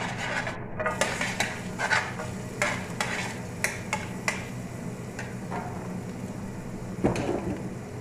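Onions being sautéed in a frying pan and stirred with a spatula: sharp scrapes and clicks of the utensil against the pan about every half second for the first few seconds, then one more near the end.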